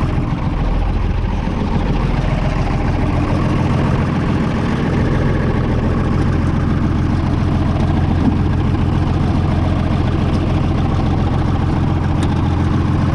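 Large farm engine running steadily at a constant speed.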